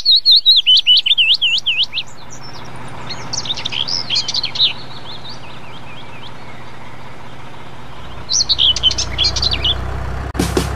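Songbirds chirping: a quick run of sweeping whistled notes for the first two seconds, further bursts of chirps in the middle and again near the end, over a steady low background rumble.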